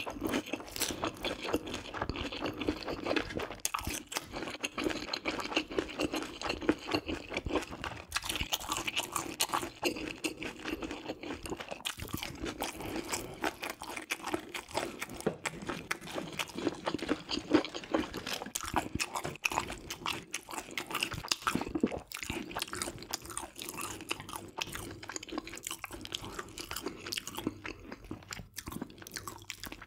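Close-miked chewing of a mouthful from a spicy stir-fried baby octopus and pork belly dish, with many small crunching clicks throughout.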